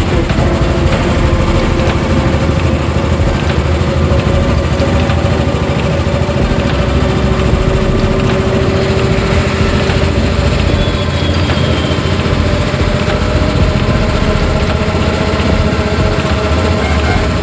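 A motor vehicle's engine running steadily with road noise, a constant drone with an unchanging hum.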